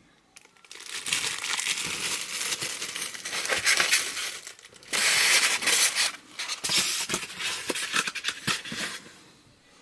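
Packaging crinkling and rustling as it is handled and unwrapped, with many small clicks. It gets loudest for about a second around the middle, then dies away near the end.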